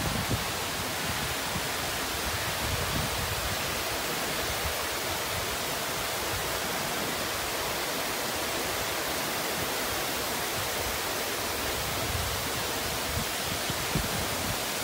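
Torrential hurricane rain pouring down in a steady hiss.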